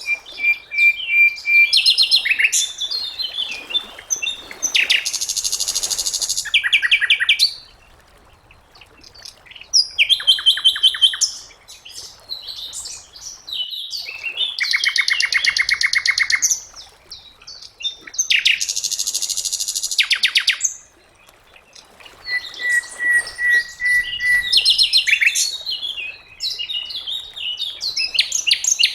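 Sikatan londo (a flycatcher) singing a long, varied song: held clear whistles, fast trills of repeated notes and buzzy bursts, broken by two short pauses.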